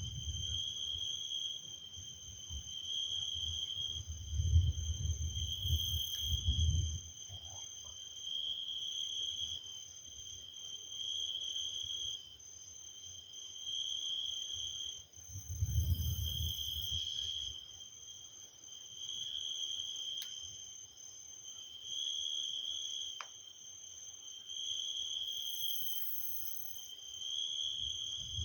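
An insect calling steadily on one high pitch, swelling in a regular pulse about every two seconds, with two low rumbles in the background, one a few seconds in and one about halfway through.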